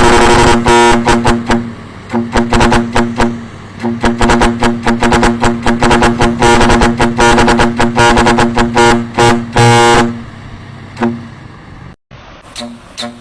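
Truck horn with two steady tones, held, then honked in rapid short blasts for about ten seconds before trailing off into a few scattered toots.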